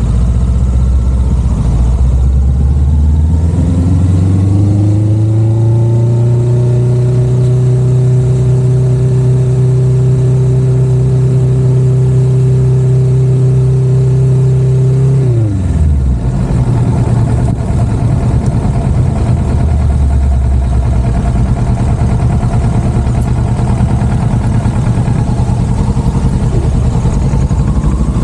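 Parallel-twin motorcycle engine under way. The note climbs over the first few seconds as the bike accelerates, holds steady at cruising speed, then drops sharply about halfway through as the rider rolls off the throttle, and runs on lower with road and wind noise.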